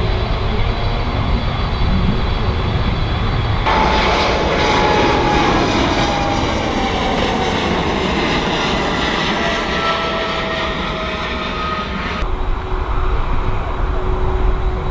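Boeing 767 freighter's jet engines running loud over a steady low rumble. In the middle a whine slowly falls in pitch, and the sound changes abruptly twice.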